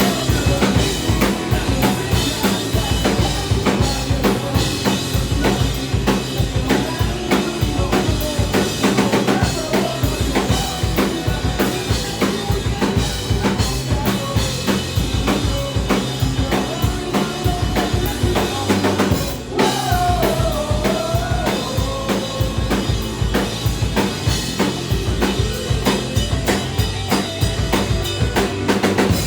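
Live punk rock band playing an instrumental stretch of a song, with steady driving drums under electric guitar and bass and no singing. The band drops out for a moment about two-thirds of the way through, then comes back in with a bending guitar line.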